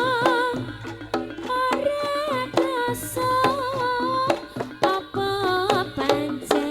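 Javanese campursari band music: a wavering melody line that holds notes and shifts pitch, over frequent sharp hand-drum strokes.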